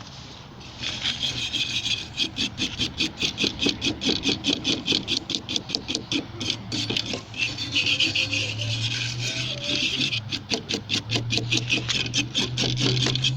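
Rapid back-and-forth scrubbing of a gas water heater's thermocouple and pilot parts by hand to take off rust, about five strokes a second, starting about a second in. A low steady hum runs underneath.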